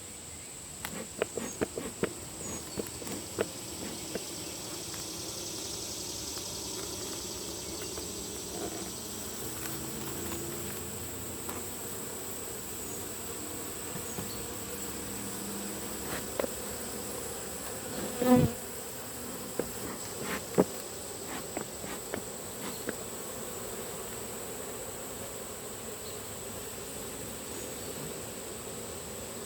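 Honeybees buzzing steadily, with scattered clicks and knocks of handling, the loudest about eighteen seconds in.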